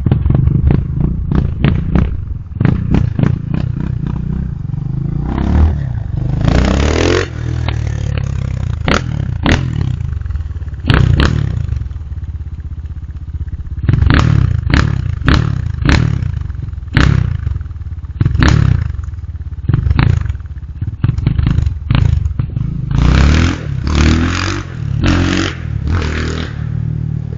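X-Pro Templar 250 motorcycle engine running and being revved in many short throttle blips. It makes one longer rising rev about six seconds in, and a quick run of blips near the end.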